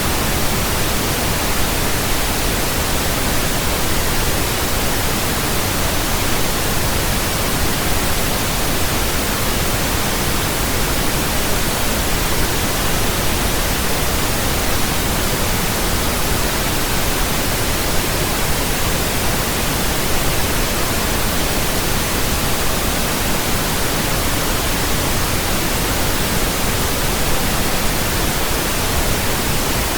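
Steady pink noise: an even, unchanging hiss spread across all pitches, with a soft low rumble under it.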